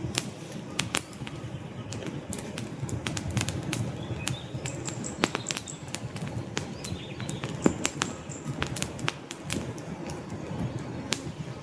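Wood fire burning in a fireplace: logs crackling with frequent, irregular sharp pops over a low, steady rush of flame. One pop about two-thirds of the way through is louder than the rest.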